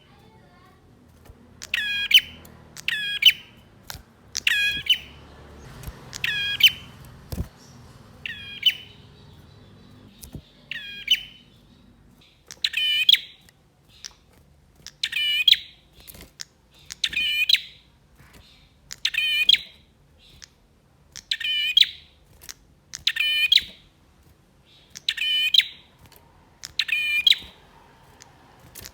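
Male prenjak (prinia) calling over and over: a short, sharp, buzzy call repeated about every one to two seconds, some fourteen times.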